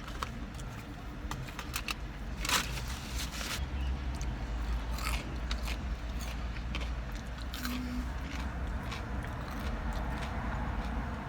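A person biting and chewing fast food close to the microphone: scattered wet clicks and crunches, with a louder crunch about two and a half seconds in.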